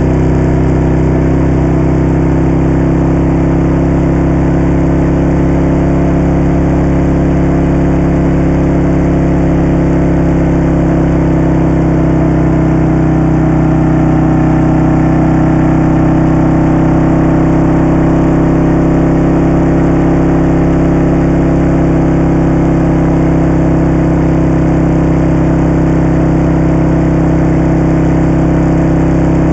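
Moto Guzzi V-twin motorcycle engine running at a steady, even speed, its pitch holding constant.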